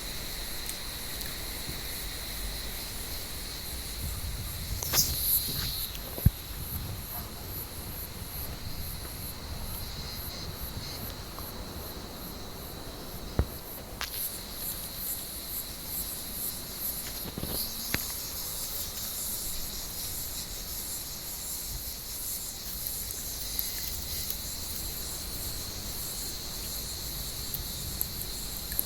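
Cicadas singing in a steady, high-pitched chorus, with a few short knocks and rustles scattered through it, the loudest around five to six seconds in.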